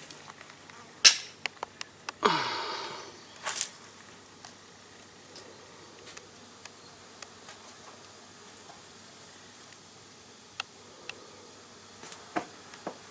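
Flies buzzing around close by. A few sharp clicks and a short rasping burst with a falling tone come in the first four seconds, then fainter scattered ticks.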